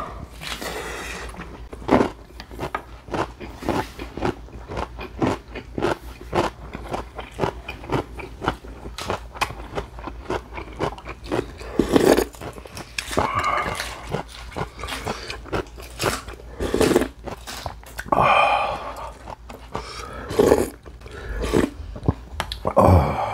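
Close-miked eating: wet chewing and crunching of food in the mouth, with a few slurps from spoonfuls of soup.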